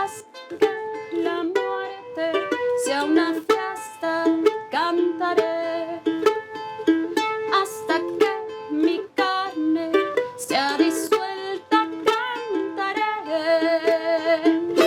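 Acoustic guitar played solo, picked notes and strummed chords: the instrumental introduction of a song.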